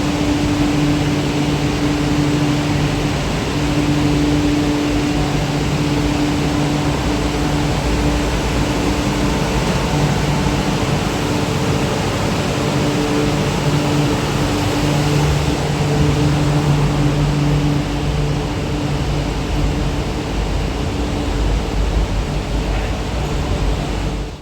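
Steady running noise of a CRRC Qingdao Sifang Q-Train, an electric metro train, with a low hum at steady pitch that fades in and out.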